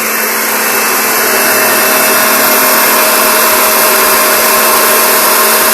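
Kirby upright vacuum cleaner running steadily with a whine over a loud rushing hiss as it goes over carpet, picking up sand another vacuum left behind.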